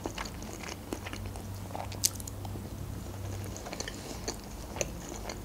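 A person chewing a mouthful of pasta with her mouth closed: soft, wet mouth clicks, and one sharper click about two seconds in.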